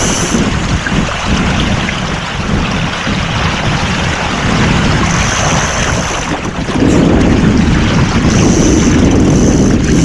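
Wind buffeting the microphone over water washing along a sailing boat under way, a steady rushing noise that grows louder about seven seconds in.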